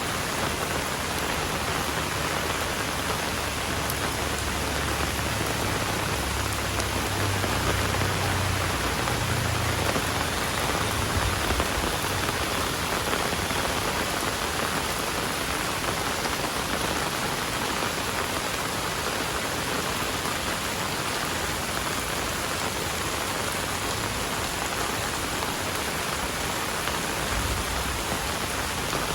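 Heavy rain pouring steadily onto surfaces, a dense even hiss, with a low rumble swelling for several seconds near the start.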